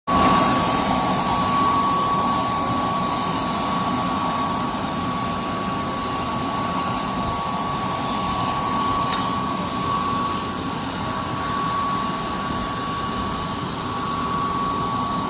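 Steady whine of a running jet turbine over a constant rushing hiss, with one high tone held unchanged throughout.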